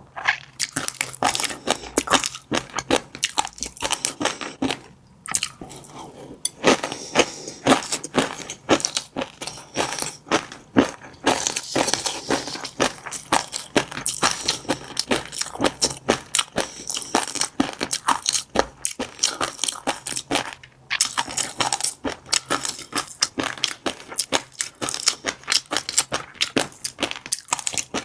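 Close-miked chewing of fish roe: rapid, dense popping and crackling as the eggs burst in the mouth, with short pauses about five seconds in and again near twenty-one seconds.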